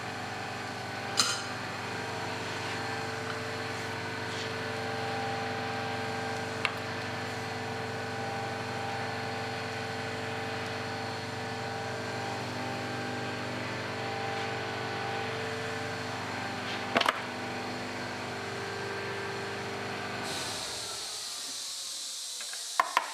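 Powered hydraulic pump of a hose crimper running steadily while a hydraulic hose fitting is crimped, with a few sharp metallic clicks. The pump stops about 20 seconds in, followed by a hiss.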